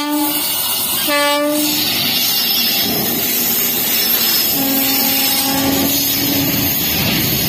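Electric locomotive horn sounding three times: a short blast ending just after the start, another short blast about a second in, and a longer blast of about two seconds near the middle. Meanwhile a freight train hauled by two electric locomotives passes close by, its wheels rumbling and clattering on the rails.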